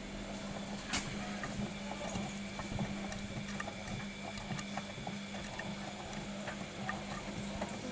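Old Bosch washing machine on a Cottons 40°C wash: the drum motor hums steadily while the turning drum sloshes water and laundry, with irregular light knocks and patters.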